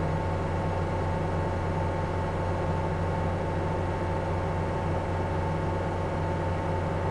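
Diesel engine of heavy earthmoving equipment running at a steady speed, a constant low hum with a steady whine over it.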